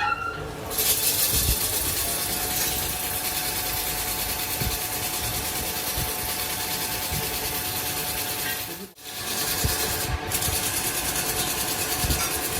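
A power tool abrading metal, steady grinding or sanding, with a faint steady motor tone. It breaks off for a moment about nine seconds in and then carries on.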